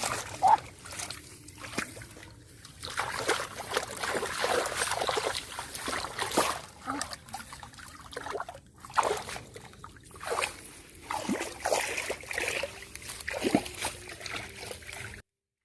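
Shallow water splashing and sloshing in irregular bursts, as when hands or a fish churn a flooded pool. It cuts off suddenly near the end.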